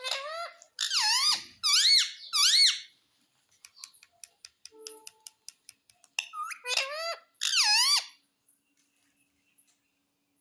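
Pet parrot giving shrill, rising-and-falling screeching calls in two bursts of several calls each, with a run of quick sharp clicks between them.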